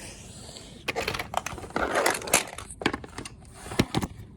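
Rustling and crinkling with a run of sharp clicks and taps, the busiest patch about two seconds in: objects being handled close to the microphone.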